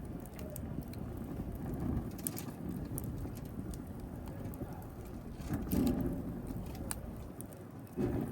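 Wood fire burning with a steady low rush of flame, dotted with sharp crackles and pops from the burning wood. It flares up louder about two-thirds of the way in and again near the end.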